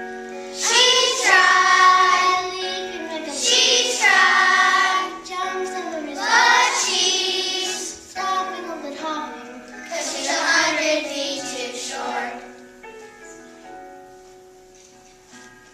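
Children singing a song from a school musical over a steady instrumental accompaniment, in four sung phrases. After the last phrase the accompaniment carries on alone and grows quieter.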